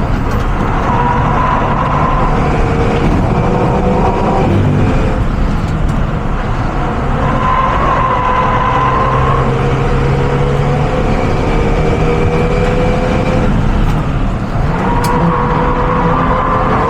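Renault Mégane RS engine running hard under load on track, its pitch climbing slowly and dropping sharply a few times as it shifts and lifts.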